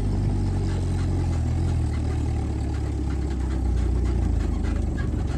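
Car engine running steadily at low revs, a deep even drone.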